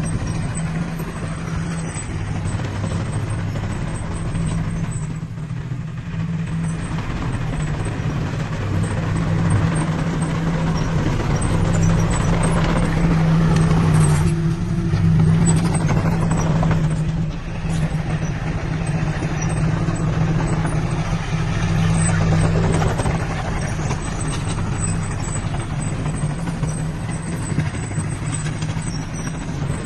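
Heavy diesel engine of earthmoving equipment running steadily under load, with a brief noisy burst about halfway through.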